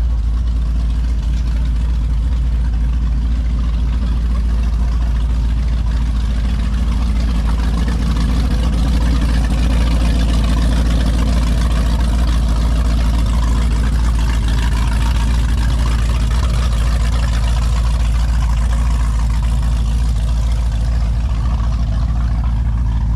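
Engine idling with a steady low hum, and a broader engine noise that swells up and fades in the middle.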